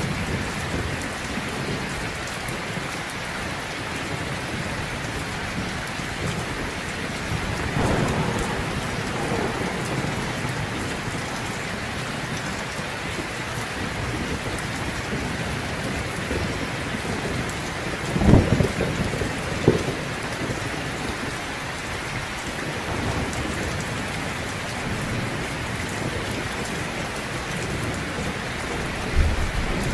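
Heavy rain falling steadily. Thunder rumbles low about eight seconds in, and a louder, sharper clap of thunder comes about eighteen seconds in, with a smaller one just after.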